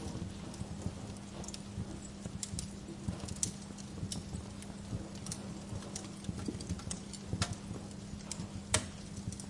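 Wood fire crackling in a fireplace: irregular sharp pops and snaps over a steady low hum, with one louder pop near the end.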